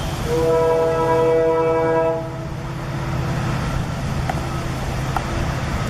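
Train horn sounding for about two seconds, a chord of several steady tones, over the steady low rumble of a moving train, which carries on after the horn stops.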